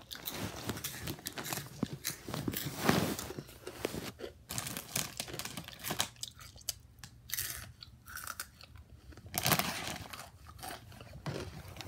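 Crunching and chewing of cheesy chips close to the microphone, in irregular bites.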